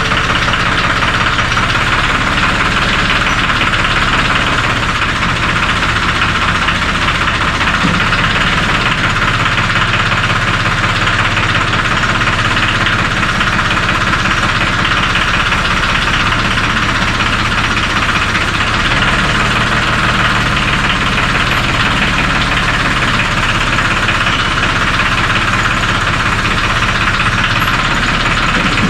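Ford 1720 compact tractor's three-cylinder diesel engine running steadily, with a diesel knock.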